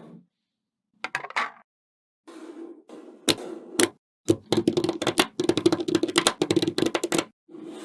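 Small magnetic balls clicking sharply against each other as they snap together, at first a few clicks, then quick dense runs of clicks from about halfway in.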